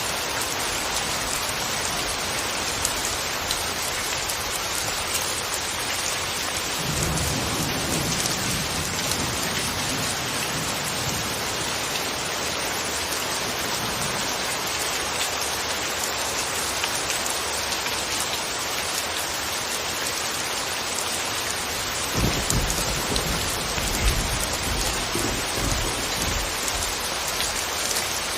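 Steady rain falling, an even hiss, with two low rumbles of distant thunder: one about a quarter of the way in, and a stronger, longer one past the middle.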